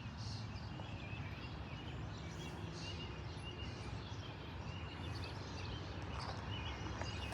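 Small birds chirping in many short, scattered calls over a steady low rumble of background noise.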